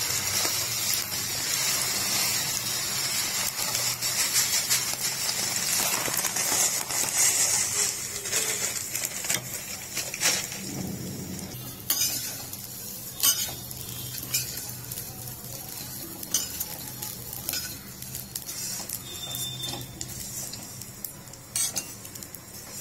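Vermicelli frying in hot oil in a stainless steel pan, a dense sizzle that dies down after about ten seconds as it roasts. It is then stirred with a spoon that scrapes and clinks against the pan at intervals.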